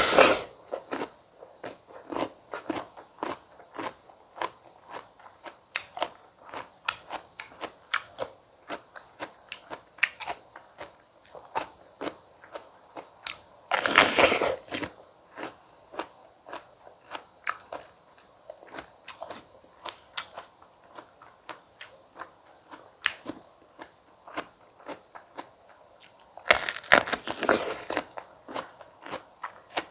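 Close-up eating sounds: three loud crunching bites into crisp fresh fruit, at the start, about halfway through and near the end, with a steady rhythm of short wet chewing clicks in between.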